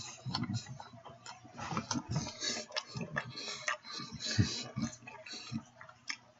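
A man chewing and biting into a ribeye steak sandwich on a hoagie bun close to the microphone: irregular wet mouth clicks and smacks with soft low thumps of chewing.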